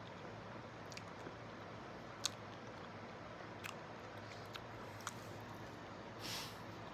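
Close-up chewing of chocolate-dipped banana with nuts: a few faint, sharp mouth clicks spaced a second or so apart, and a short soft hiss near the end.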